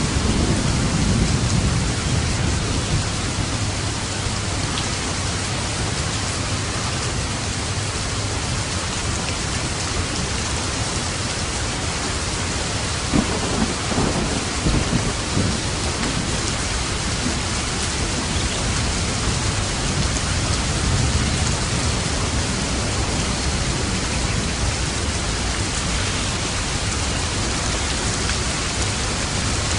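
Steady heavy rainfall with light thunder: a low rumble near the start, and again with a few sharp cracks about halfway through.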